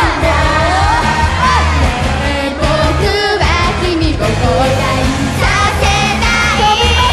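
Live J-pop performance: a female idol group singing over a loud pop backing track with heavy bass.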